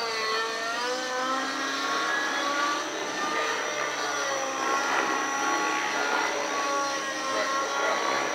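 Radio-controlled helicopter in 3D aerobatic flight, its motor and rotors whining with a pitch that rises and falls as the manoeuvres load and unload the head, over a steady high whine.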